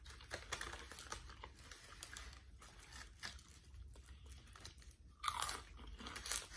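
Close-up chewing and crunching of Flamin' Hot Cheetos, dipped in queso, and a burrito, with a louder burst of crunching about five and a half seconds in.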